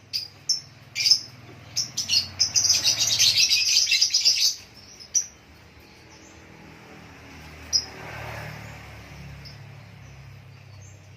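Lovebirds chirping: a few short, sharp high chirps, then a fast run of chirps for about two seconds, then only an odd chirp.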